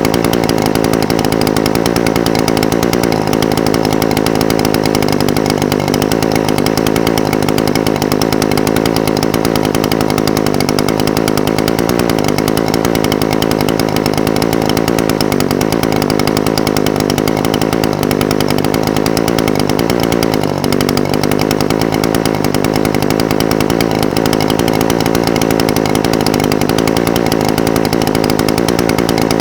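Echo SRM-420TES brush cutter's two-stroke engine idling steadily, its low note wavering slightly now and then.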